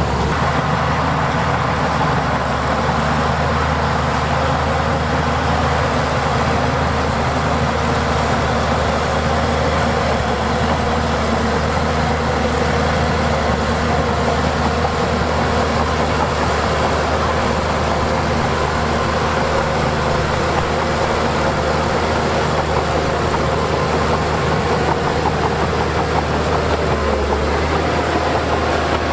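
Heavy diesel earthmoving machinery running steadily: a deep, continuous engine drone with a faint wavering whine above it.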